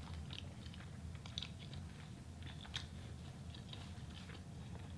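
A person chewing food close to the microphone, with irregular small wet mouth clicks and light crunches, over a steady low hum.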